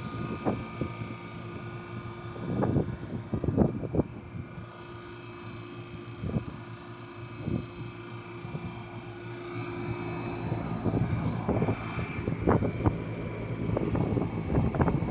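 Carlyle 06D818 semi-hermetic reciprocating compressor running with a steady mechanical hum and irregular knocks and clatter over it, in what the owner calls good running condition.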